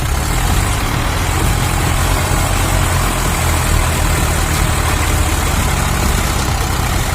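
Swaraj 855 tractor's diesel engine running steadily, a loud, low, even engine sound.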